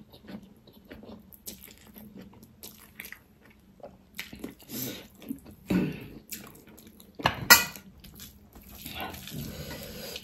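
Close-up eating sounds: chewing and wet mouth smacks as rice and pickled pork trotters are eaten by hand, with scattered small clicks. The loudest is one sharp smack about seven and a half seconds in.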